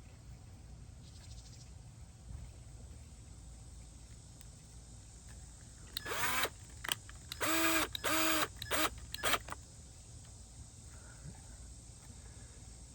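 Cordless screw gun driving small flat-head wood screws into birch plywood in several short bursts, starting about six seconds in. The motor winds up and stops each time, with the two longest runs lasting under a second.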